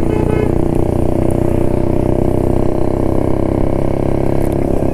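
1972 Jawa motorcycle's two-stroke single-cylinder engine running steadily at a constant speed while it is ridden.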